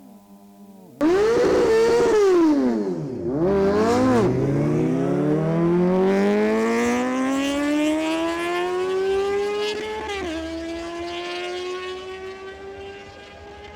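Superbike engines at full throttle on a drag run, starting suddenly and loudly about a second in. The engine pitch climbs and drops sharply at each gear change, then rises in one long pull. A last shift comes near the end, after which the engines hold and fade away.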